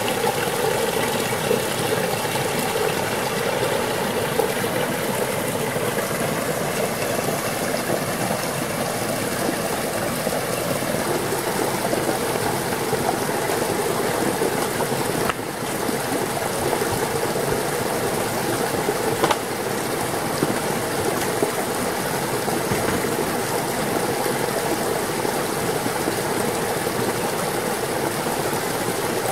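Steady rushing of running water, like a stream, with a couple of faint clicks.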